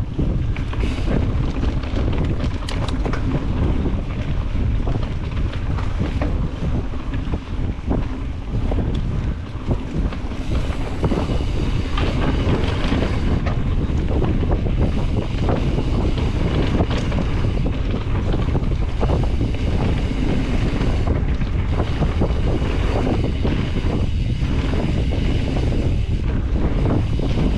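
Wind buffeting the microphone of a camera on a Specialized Stumpjumper EVO Comp mountain bike riding fast downhill, with the tyres rolling over dirt and many small knocks and clatters from the bike over bumps.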